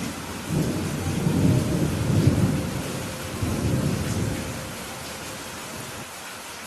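Steady rain falling, with a long rolling rumble of thunder that starts about half a second in, swells in several surges and dies away after about four seconds.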